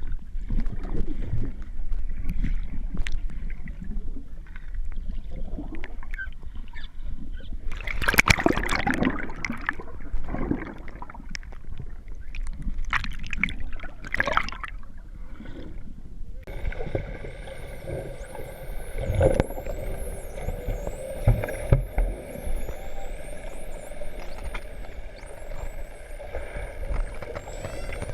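Water and wind noise around a small tour boat, with a loud splash-like burst about eight seconds in. About halfway through the sound changes suddenly to a steady motor hum with faint, high, wavering whistles over it.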